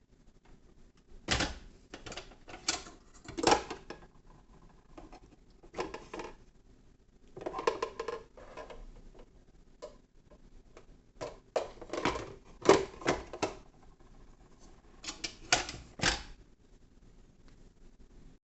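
Irregular clicks, knocks and clatter of hard objects being handled, coming in several clusters with a short scraping rustle in between.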